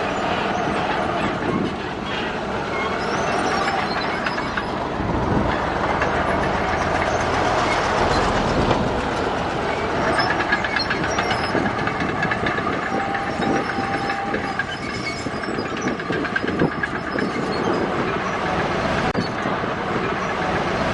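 Crawler bulldozer working: diesel engine running under load with a continuous clanking and rattling of its steel tracks.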